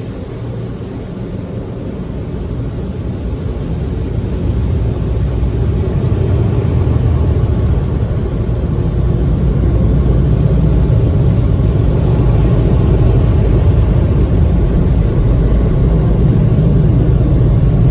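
Car rumble: a loud, low, steady noise that grows louder over about the first ten seconds and then holds steady.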